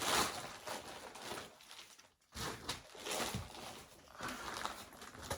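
Clothing fabric rustling as garments are handled and pulled from a pile, in several stretches with a short pause about two seconds in.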